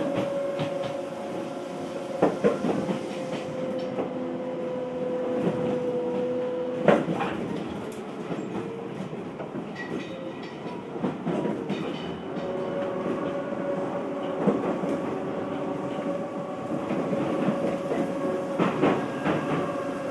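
Odakyu 1000 series electric train running, heard from inside the car: a steady whine from the running gear, with the clickety-clack and knocks of the wheels over the track. The whine drops out for a few seconds midway and then returns, and the sharpest knock comes about seven seconds in.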